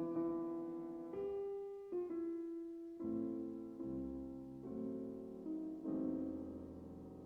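Solo piano playing a slow classical piece, a new chord struck about once a second and left to fade.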